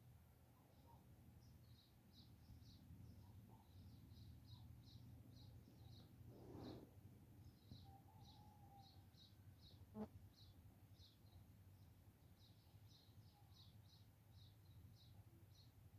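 Small birds chirping faintly: short high chirps repeated about two or three times a second over a low steady hum, with a single sharp click about ten seconds in.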